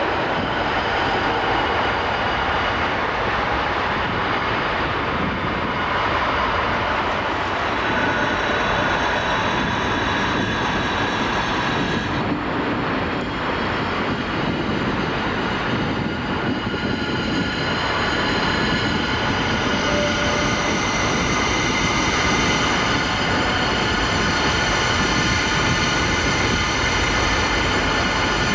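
Steady, loud roar of strong wind from a tornado, a continuous rushing with no break, with faint steady high tones coming up in the second half.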